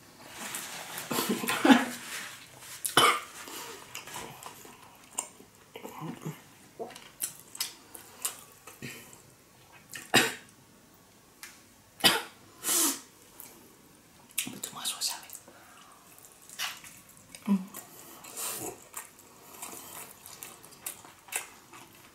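Close-miked chewing and lip-smacking while eating sushi: a stream of wet smacks and sharp mouth clicks, with a cough about a second in.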